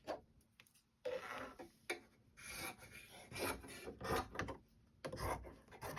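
Paper and fabric rubbing and rustling as the pieces of a paper-pieced quilt block are handled and smoothed, in irregular scratchy strokes with small clicks, starting about a second in.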